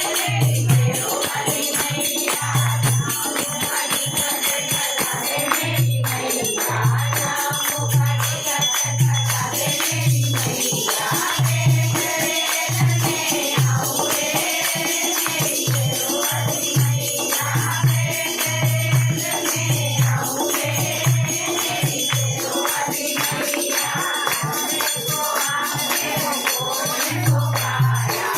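A group singing a Hindi devotional bhajan to a steady low drum beat, about two strokes a second, with shaken rattles and jingling percussion.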